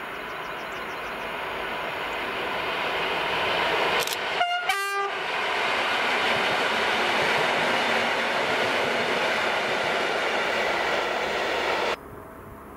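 EN57ALd electric multiple unit passing close by, its noise building as it comes on, with a short two-tone horn blast, a higher note then a lower one, about four seconds in. The loud passing noise cuts off suddenly near the end, leaving a much quieter background.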